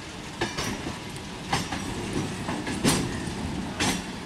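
Electric multiple unit suburban train passing close by: a steady running rumble broken by about five sharp, irregularly spaced clacks of its wheels over the rail joints, the loudest near three seconds in.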